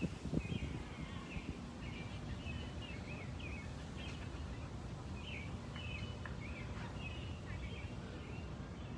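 Small birds chirping in short, scattered notes over a steady low background rumble of outdoor ambience, with a few low thumps right at the start.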